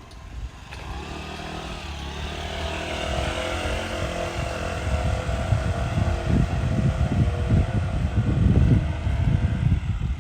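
A motor vehicle approaching on the street, its engine hum and road noise growing steadily louder until it passes close near the end, with gusty low rumble as it goes by.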